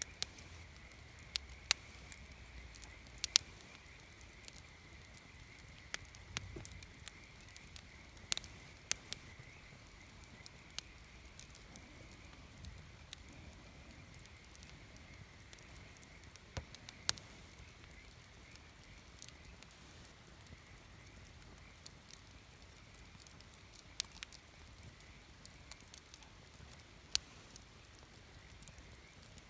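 Wood campfire burning, with irregular sharp pops and snaps over a soft low crackle, a few louder cracks standing out. A faint steady high tone runs underneath.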